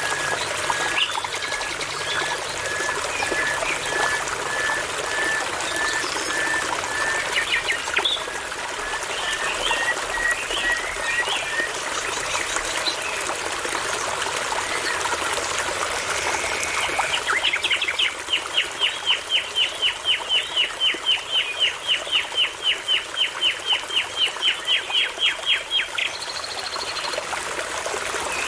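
Common nightingale singing over a steadily babbling brook. First comes a long string of slow, evenly spaced piping whistles that creep upward in pitch. Then, past the middle, a fast run of about thirty downward-sweeping notes, some four a second, which stops shortly before the end.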